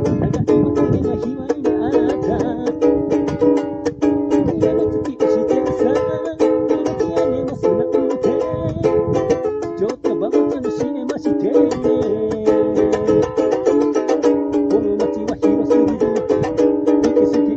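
Ukulele strummed steadily in full chords, with quick, even strokes and no singing.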